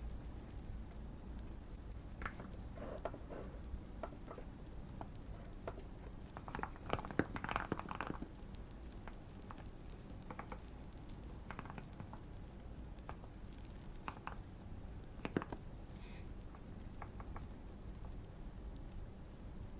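Sparse, soft keystrokes on a Keychron Q1 mechanical keyboard, with a short flurry of typing about seven seconds in. Light fireplace crackling and a steady low hum run underneath.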